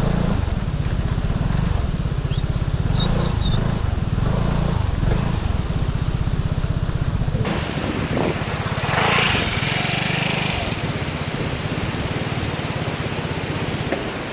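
Vespa scooter engine running with a steady low pulse. About halfway through, a rushing hiss comes up over it.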